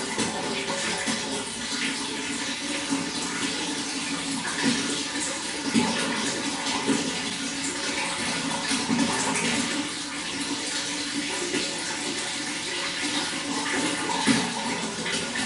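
Running water flowing steadily, with small irregular splashes.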